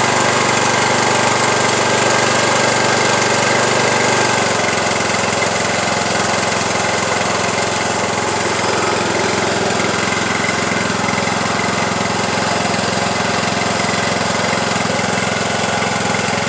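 Craftsman YT3000 lawn tractor's engine running steadily. About four seconds in, its note drops slightly and it settles a little quieter.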